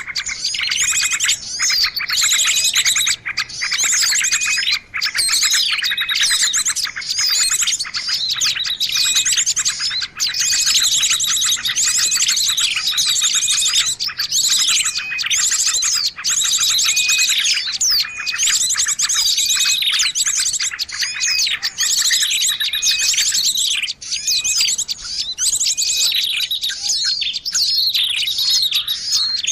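Bird-lure recording of many songbirds chirping and trilling at once: a dense, unbroken chorus of high rapid trills and quick down-slurred chirps, played to draw wild birds in to a limed perch or trap cage.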